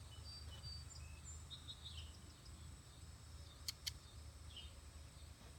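Faint outdoor ambience: a steady low rumble with scattered short bird chirps, and two sharp clicks in quick succession a little under four seconds in.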